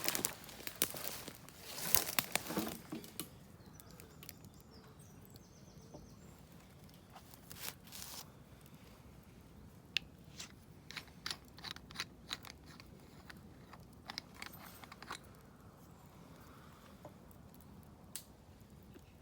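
Rustling and crinkling, with scattered sharp clicks and crackles, busiest in the first few seconds.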